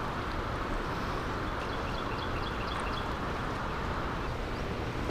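Steady rushing of water flowing below a dam, with a few faint high chirps about two seconds in.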